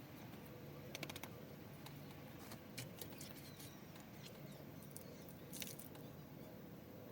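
Faint scratching and small clicks of potting soil and perlite being worked into a pot around succulent roots, with a short cluster of clicks about a second in and a few more scattered later.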